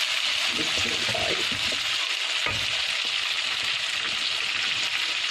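Curry gravy sizzling steadily in a pan as a little water is poured in, with one light knock about halfway through.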